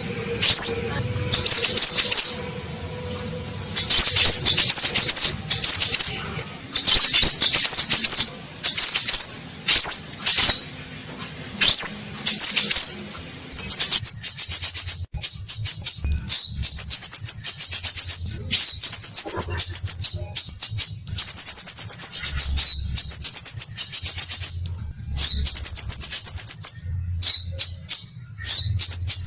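Scarlet minivet (sepah raja) singing: loud, high-pitched phrases of sharp notes in separate bursts, turning about halfway through into a fast, almost unbroken run of chattering notes.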